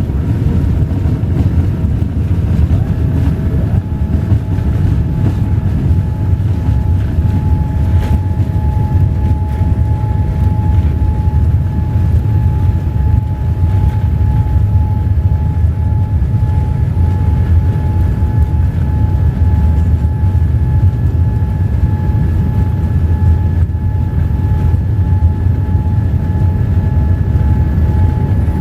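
Cabin noise aboard a Boeing 787-8 under engine power: a loud, steady low rumble of engines and airflow with a steady whine that settles in a few seconds in.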